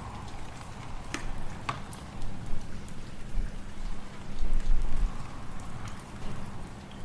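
Fireplace fire crackling, with a few sharp pops about a second in, over a low rumbling wind that gusts louder in the middle.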